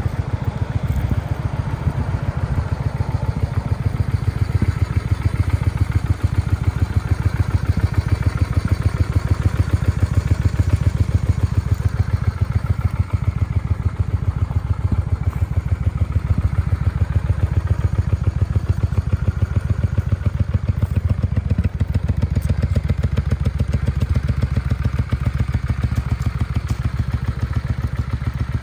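Honda Shadow VLX motorcycle's V-twin engine idling steadily, with an even, rapid exhaust beat.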